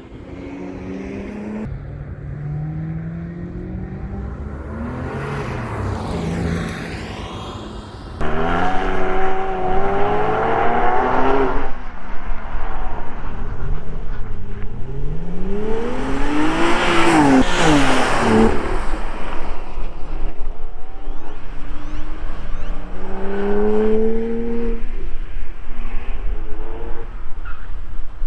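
2012 Porsche Cayman R's flat-six engine revving up and down repeatedly as the car is driven hard. It gets abruptly louder about eight seconds in, and about two-thirds of the way through the pitch climbs steeply then falls away as the car passes close by.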